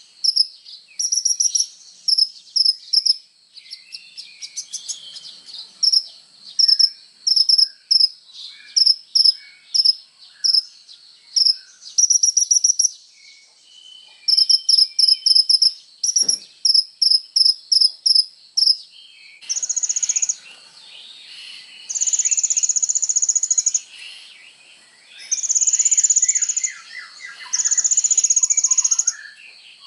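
Kolibri ninja sunbird singing energetically: rapid, very high trilled notes repeated about twice a second over softer twittering, changing about two-thirds in to longer buzzy trills lasting a second or two each.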